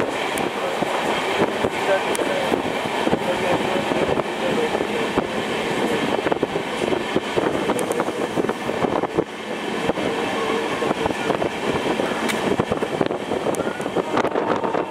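Running noise of an Indian Railways train heard from on board at speed: a steady rattle and rumble of the coach, with scattered sharp clicks of the wheels over the rails.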